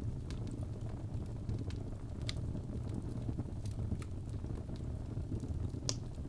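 Wood fire burning in a fireplace: a steady low rumble of the flames with scattered crackles and pops, a sharper pop about two seconds in and a louder one near the end.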